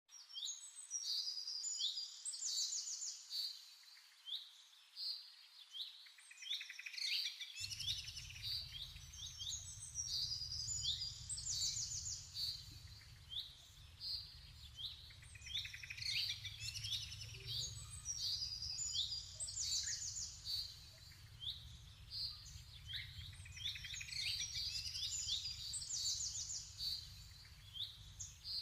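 Songbirds chirping and twittering, with many short high calls and fast trills following one another. A low steady hum comes in several seconds in and runs underneath.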